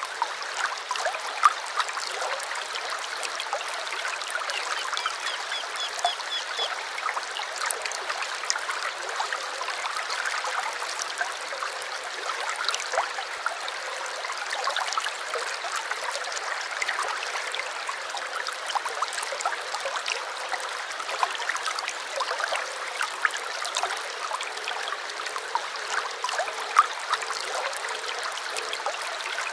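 Small stream babbling and trickling steadily, with many small splashes. About five seconds in, a bird gives a brief quick series of repeated high notes.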